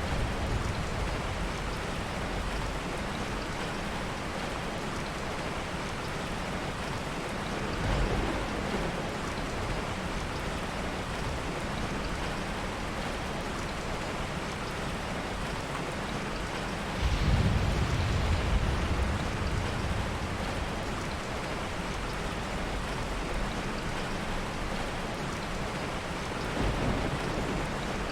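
Heavy rain falling steadily, with low rumbles of soft thunder: a short one about eight seconds in, a longer, louder one around seventeen seconds, and another short one near the end.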